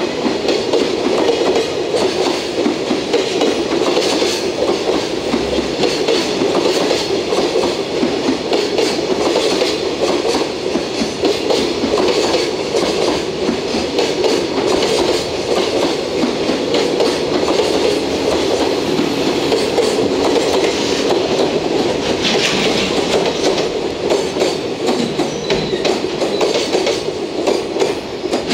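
Container freight train's flat wagons rolling past at close range: a steady, loud rolling noise with a continuous run of wheel clicks over the rail joints.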